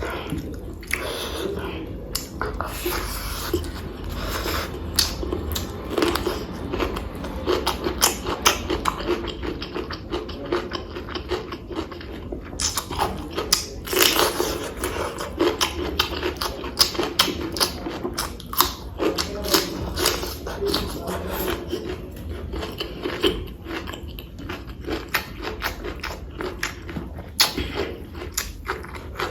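A person chewing and eating a meal of pork curry and rice, with a dense run of small wet mouth clicks and smacks.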